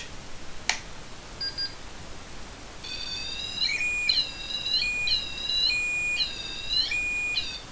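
REM pod (ghost-hunting EM-field detector) switched on with a click and a short beep, then sounding its electronic alarm: dipping, warbling tones alternating with a steady flat beep about once a second, the alarm set off by a disturbance of the field around its antenna.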